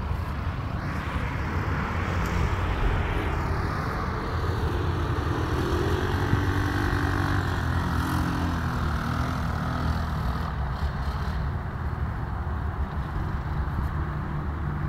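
Jaguar Agro 250 ATV engine running, with a steady low rumble and an engine note that wavers up and down around the middle.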